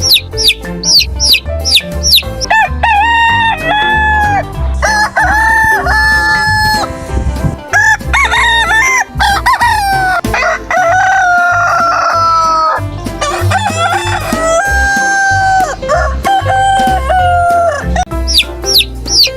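Roosters crowing about six times, long cock-a-doodle-doo calls with held notes, some overlapping, among clucking chickens and fast high cheeping in the first couple of seconds. A steady low beat of background music runs underneath.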